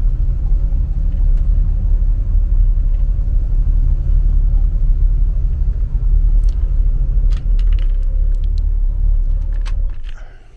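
Inboard marine engines of a 1968 Trojan 37 sport fisher running steadily with a deep, even rumble, with a few sharp clicks and light rattles over it in the second half. The rumble drops away about ten seconds in.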